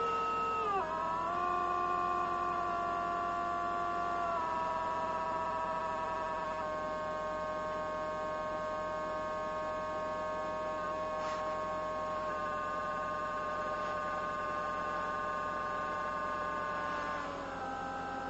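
Abnormal whine in a Toyota Noah 80-series hybrid: a steady multi-tone whine whose pitches step down several times. The noise is said to come from the car's nanoe ion generator.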